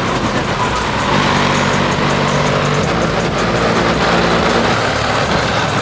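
A loud car engine running at high revs, swelling about a second in and holding for several seconds, with music playing underneath.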